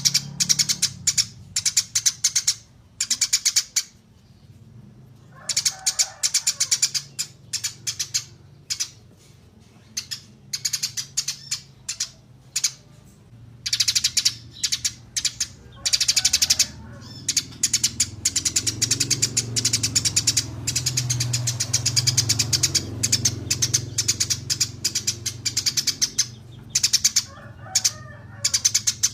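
Small songbirds chirping in fast, high-pitched rattling runs, broken by short pauses. This is 'masteran burung kecil', small-bird song recorded for training competition songbirds. A low hum runs beneath, strongest in the second half.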